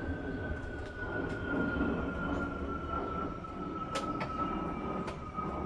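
Electric train running in the background: a low rumble under a motor whine that falls slowly and steadily in pitch, with a few faint clicks.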